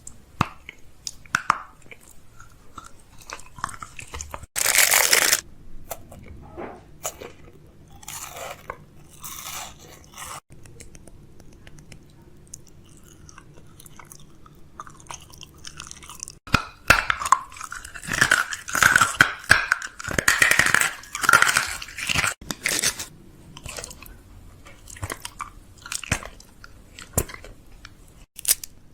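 Irregular close crunching and clicking, with a louder burst about four and a half seconds in and a wavering higher tone running through it for a few seconds later on.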